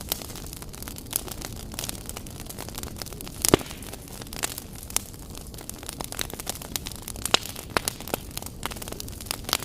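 Wood fire crackling in a fireplace: a steady low rush of flames under frequent sharp crackles and pops, with a loud pop about three and a half seconds in and another about seven seconds in.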